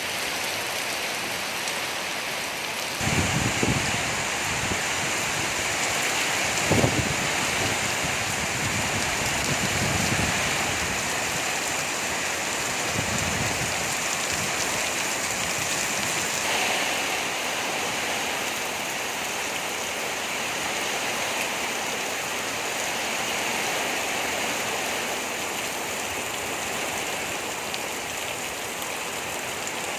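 Heavy rain pouring down in a steady hiss, with a few brief low thumps in the first half.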